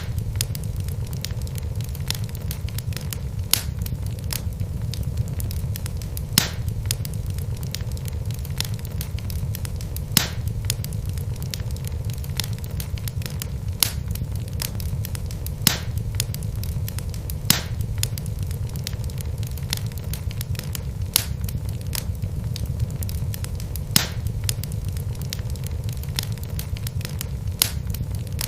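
Wood logs burning in a fireplace: a steady low rumble of flame, with sharp crackles and pops every second or two.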